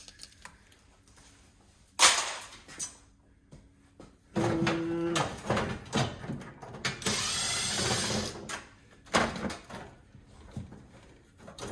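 Hand tools working on the metal and plastic parts of a gas instant water heater being taken apart: a sharp knock about two seconds in, then a short squeak, a rasping scrape and a few clicks.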